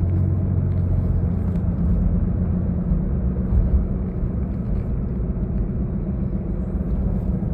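A motor vehicle engine running steadily, a low, even rumble with no change in pace.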